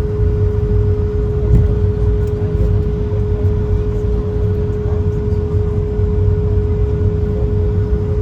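Cabin noise of an Airbus A220 rolling on the ground after landing, its Pratt & Whitney PW1500G engines near idle: a steady low rumble with a constant hum.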